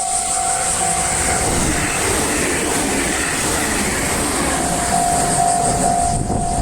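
Japanese railway level-crossing warning bell sounding its repeated electronic ding while a train passes over the crossing. The train's rumble and rail noise swell over the bell in the middle and ease toward the end, when the bell comes through clearly again.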